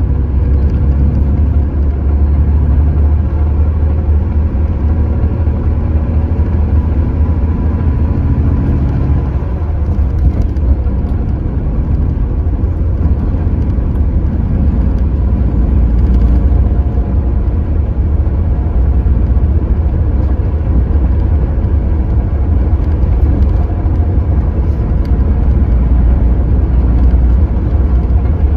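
Hyundai New Super Aero City CNG city bus engine running with a steady, loud low drone.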